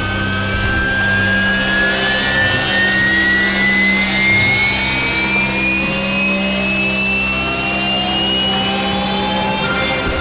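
Harrier jump jet's turbofan engine running loud on deck, its whine rising steadily in pitch as it spools up.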